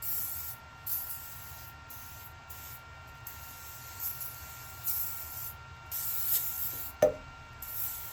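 Aerosol can of silicone coating spraying in a series of short hissing bursts, with a single sharp knock about seven seconds in.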